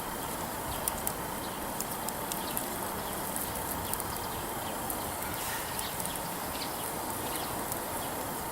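Wood campfire crackling: frequent small, sharp pops of burning firewood over a steady hiss.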